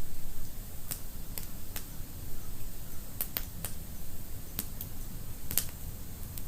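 Wood fire burning in a fireplace: a steady low rumble of the flames with irregular sharp crackles and pops, the loudest pop about five and a half seconds in.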